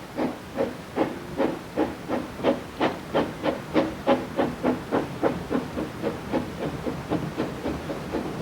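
Narrow-gauge steam locomotive working, its exhaust chuffing steadily at about three beats a second, growing fainter over the last few seconds.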